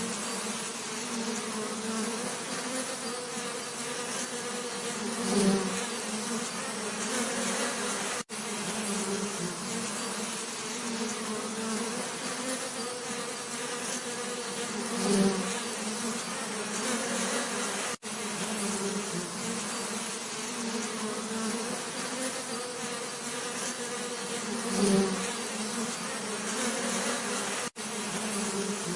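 Bees buzzing in a steady drone, with a louder swell about every ten seconds. A short recording repeats with a brief dropout at each seam, three times here.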